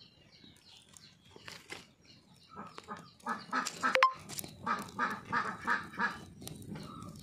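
A bird calling in a rapid series of short notes, about three a second, starting about halfway through, with a sharp click about four seconds in.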